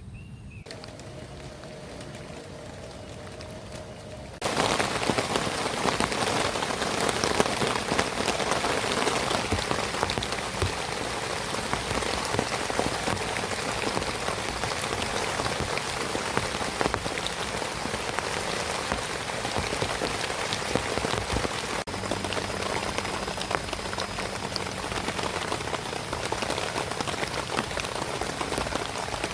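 Heavy rain falling as a dense, steady patter of drops, coming in suddenly and loud about four seconds in after a quieter stretch.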